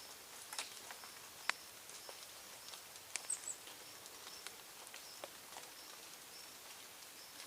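Birds at a feeding spot: scattered light ticks and taps, with faint, very short high chirps and a brief high call about three seconds in.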